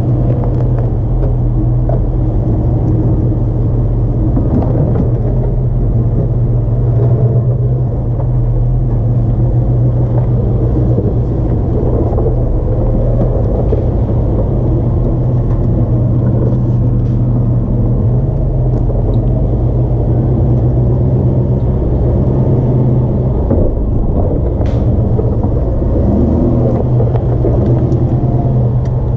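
Jeep WJ Grand Cherokee engine and drivetrain running steadily with a low drone while the Jeep is driven on an off-road trail, with a few faint knocks and rattles.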